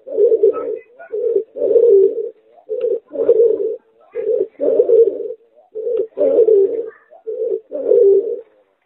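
Hybrid of a domestic pigeon and a spotted dove cooing. It repeats a two-part phrase, a short coo then a longer rolling coo, about every one and a half seconds, six times.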